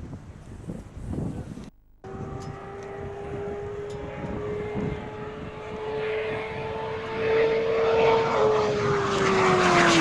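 A fast engine-driven vehicle approaching and passing by. A steady whine grows louder for several seconds, then its pitch drops steadily as it goes past.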